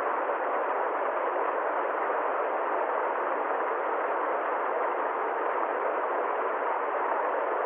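Steady, unchanging rushing hiss, muffled and even, with no rhythm, tones or separate events.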